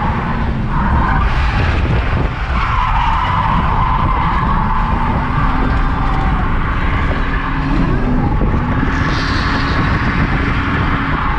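A car drifting, its tyres squealing continuously over the low sound of the engine working hard. The squeal rises higher and brighter near the end.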